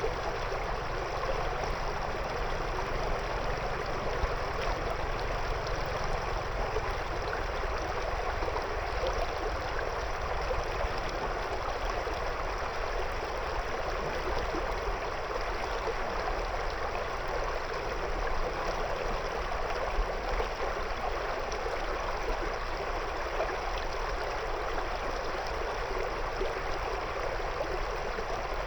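A shallow river flowing steadily over and around stones, a continuous even rush of moving water.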